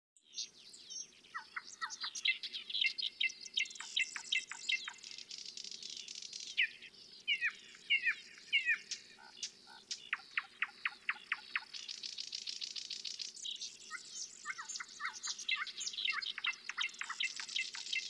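Songbirds chirping and singing in quick runs of short falling whistles, over a high, fine trill that comes and goes in long stretches.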